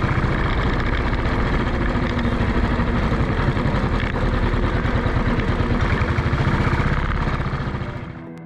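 Motorcycle engine running steadily as the bike rides along, a dense even pulsing note, fading out near the end.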